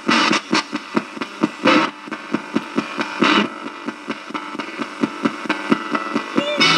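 Radio-sweep spirit box scanning through stations: a rapid, even chopping of static about five or six times a second, with brief fragments of broadcast sound in between.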